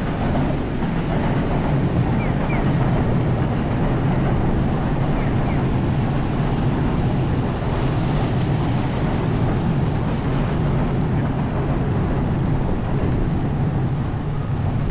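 Steady rush of wind and heavy typhoon rain with a low rumble underneath, the wind buffeting the microphone.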